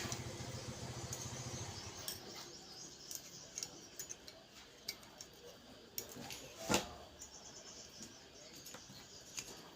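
Scattered small clicks and taps of parts and a wire being handled and fitted on a gas stove's ignition assembly, with one sharper knock about seven seconds in. A steady low hum runs for the first two seconds, then stops.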